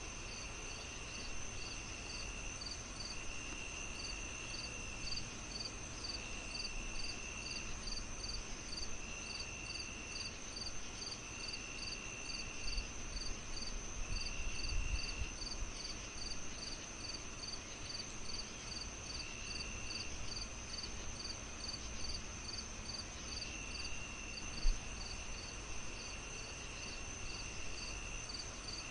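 A chorus of crickets over a steady high whine: one chirps evenly about two to three times a second, another gives drawn-out trills every couple of seconds. Beneath them is the soft hiss and crackle of a fireplace, with one louder pop about three-quarters of the way through.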